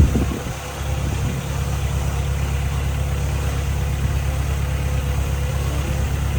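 Diesel engine of heavy earth-moving machinery running steadily at a low, even pitch, with a brief louder sound right at the start.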